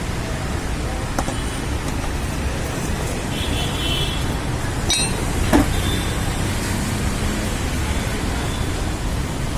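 Steady road traffic noise with a low rumble, broken by a few sharp metallic clinks about five seconds in.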